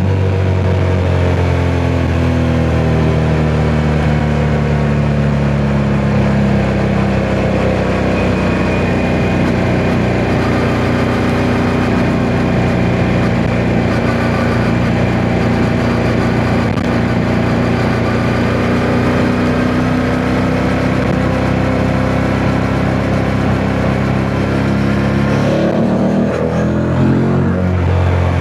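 Yamaha MT-07's 689 cc parallel-twin engine running under way. Its pitch eases down at first and then holds steady, before the revs rise and drop sharply about 25 seconds in. Wind noise buffets the microphone throughout.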